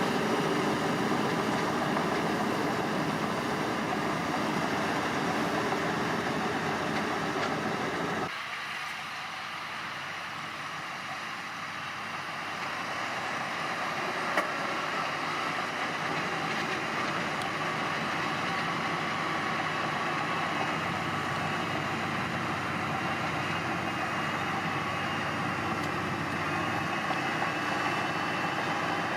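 Heavy construction machinery engines running steadily. About eight seconds in the sound changes abruptly, going quieter with less low rumble, then gradually builds up again.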